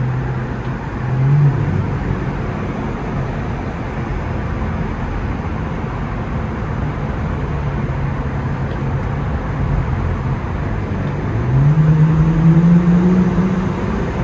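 Infiniti Q50 with a muffler-deleted exhaust droning steadily at a low cruise over road noise, with a brief rev about a second in; near the end the exhaust note climbs in pitch and gets louder as the car accelerates.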